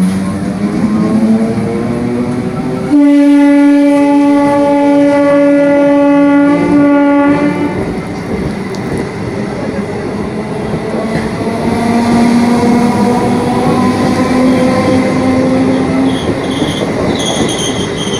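Electric multiple unit (EMU) local train pulling away. Its traction motors whine, rising in pitch. About three seconds in, an EMU horn sounds one long steady blast of about five seconds, the loudest sound here. Then the wheels clatter on the rails while the motor whine climbs again.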